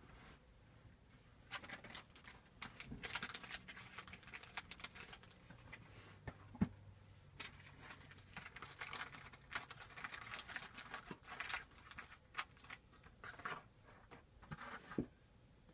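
Trading cards and their wrappers and plastic holders being handled: a busy run of soft rustling, sliding and light clicks, with one sharp knock about halfway through.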